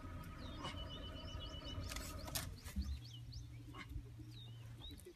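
Wild birds chirping in short, quick, curved calls, many in a row. A low steady hum comes in about three seconds in and stops near the end, and a couple of sharp clicks come around two seconds in.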